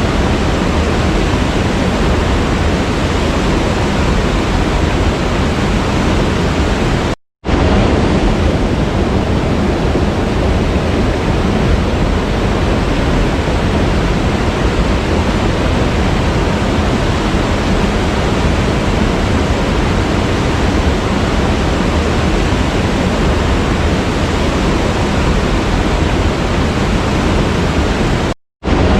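Waterfall, a steady dense rush of falling water. The sound cuts out completely for a split second twice, once about seven seconds in and once near the end.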